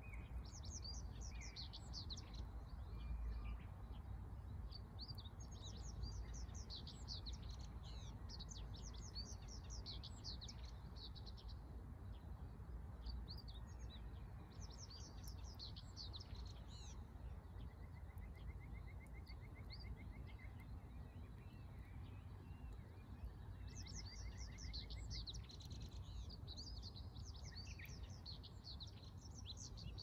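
Songbirds singing in quick, busy chirping phrases that come in bursts with short pauses, over a steady low background rumble. A faint, fast, evenly repeated trill comes in twice, about halfway through and again later.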